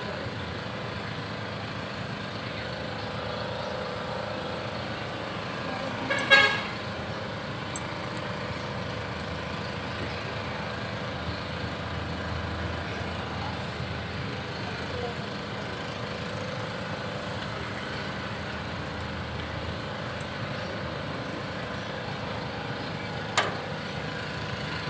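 A vehicle horn gives one short toot about six seconds in, over a steady background hum; a single sharp click comes near the end.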